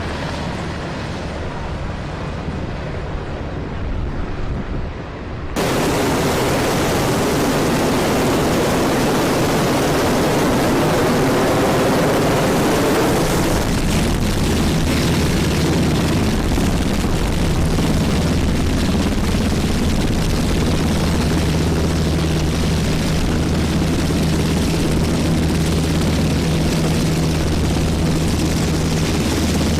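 Military helicopter rotors and turbine engines running with heavy, continuous noise. About five seconds in the sound cuts abruptly to a louder, fuller rush, which settles into a steady low hum from the rotor later on.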